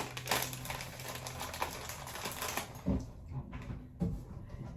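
Small items being handled and packed: rapid light clicks and rattles, with a couple of soft low thumps in the last second and a half.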